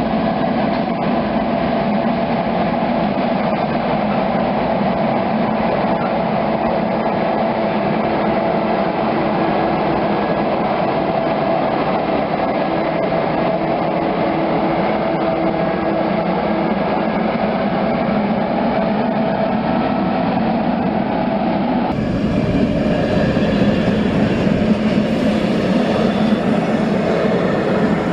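A train running on the rails: a steady, loud rumble with a humming tone over it. About 22 seconds in the sound changes abruptly to a fuller, brighter rumble.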